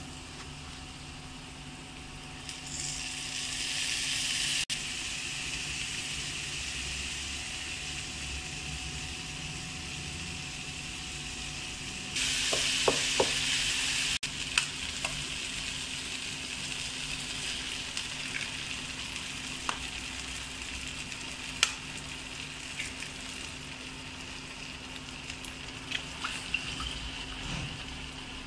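Diced carrots and long beans sizzling as they stir-fry in a nonstick wok, with a spatula scraping and clicking against the pan. The sizzle grows louder about three seconds in and surges for a couple of seconds near the middle.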